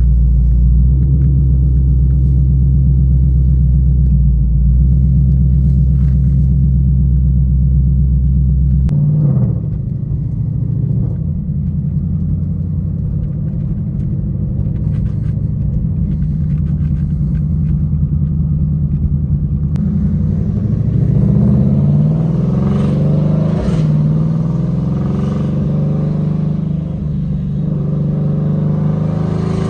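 Twin-turbo Shelby GT500 V8 engine and exhaust under way, holding a steady low drone for about nine seconds before dropping lower. From about twenty seconds in it revs up several times in a row as the car accelerates through the gears.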